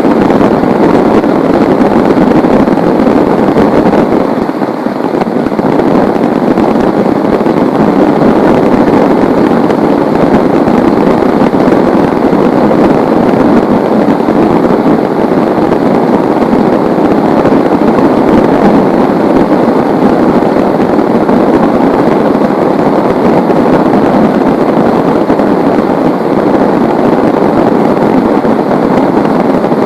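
Heavy rain pouring steadily as a loud, even rush, easing slightly for a moment about four seconds in.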